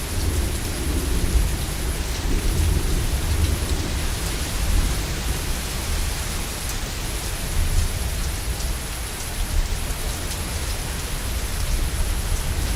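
Heavy rain falling steadily, with a low rumble of thunder underneath that swells and eases.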